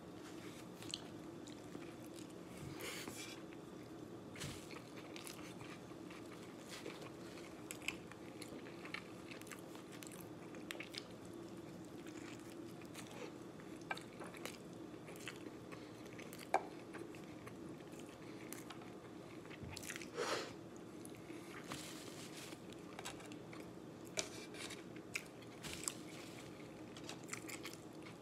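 A person biting and chewing a burrito: irregular short wet mouth clicks and crunches, over a steady low hum.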